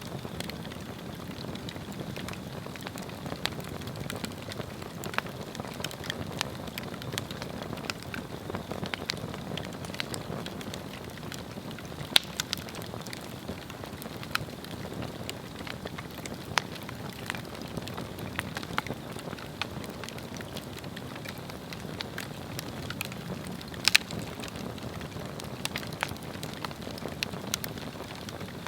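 Swedish torch log fire burning: a steady low rush of flame with dense small crackles. Two louder sharp pops stand out, one about twelve seconds in and one a few seconds before the end.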